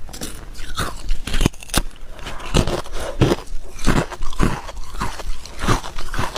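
Hard clear ice being bitten and crunched between the teeth: a run of sharp, irregular crunches, about one or two a second.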